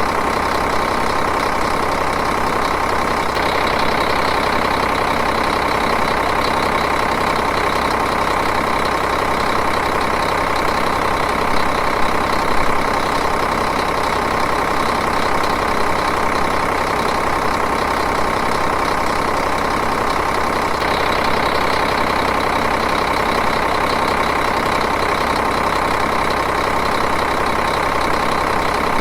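Diesel engine idling steadily, an even, continuous running sound with a fine rapid rhythm.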